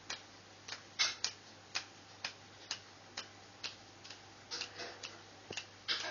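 Fingers clicking at a steady beat, about two snaps a second, to get a parrot dancing.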